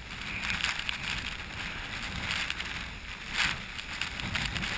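Kayak paddle strokes splashing in the water, three strokes over a steady low rumble of wind on the microphone.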